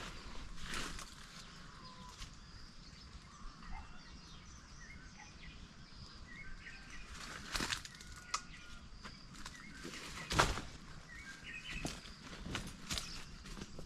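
Forest birds chirping in short scattered phrases over a faint background. A few sharp knocks or snaps come in between, the loudest about ten seconds in.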